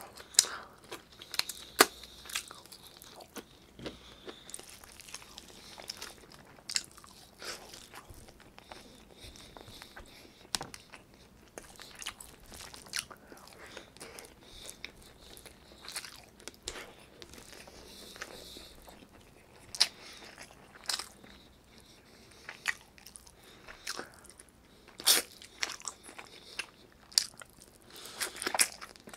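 Close-miked chewing and biting of braised chicken adobo and rice eaten by hand: mouth sounds with irregular sharp clicks and smacks, a few of them louder.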